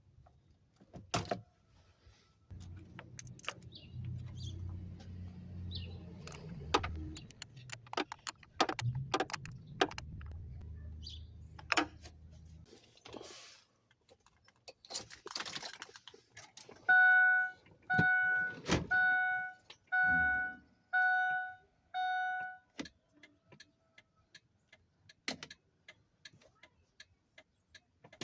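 Keys jangling and scattered clicks in a Ford Excursion's cab, with a low hum for about ten seconds. Then come six loud, evenly spaced electronic warning chimes, about one a second, from the truck's dash chime.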